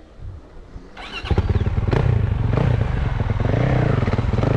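Dirt bike setting off about a second in: a brief rising whine, then a steady rough running sound from the ride that lasts to the end.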